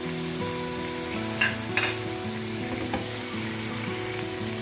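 Chicken shashlik skewers sizzling in hot oil in a nonstick frying pan, with a couple of sharp clicks about a second and a half in.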